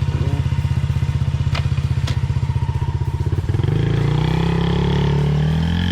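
Yamaha TT-R50's small single-cylinder four-stroke engine idling with a steady, even putter, then about three and a half seconds in the revs climb smoothly as the throttle is opened.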